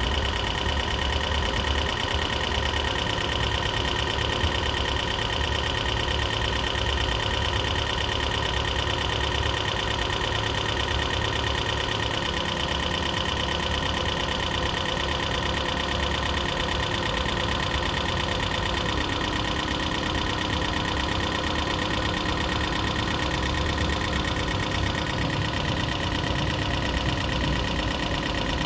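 2012 Prius V's four-cylinder engine running steadily with a mechanical noise and a steady high tone over it, which the owner puts down to the lifters still adjusting after a head gasket rebuild and expects to clear up.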